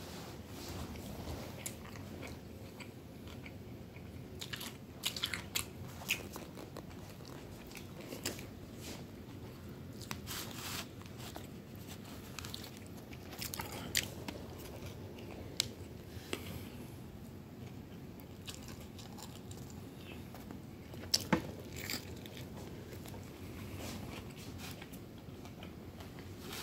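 A person biting and chewing a chicken salad sandwich with lettuce, tomato and pickle, with wet mouth clicks and scattered crunches; the loudest crunches come about 21 seconds in.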